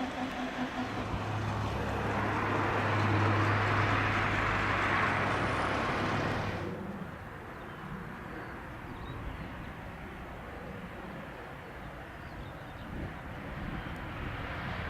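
Helicopter engine and rotor noise with a low steady hum, swelling to its loudest about four seconds in, then cutting off abruptly near seven seconds to quieter steady outdoor background noise.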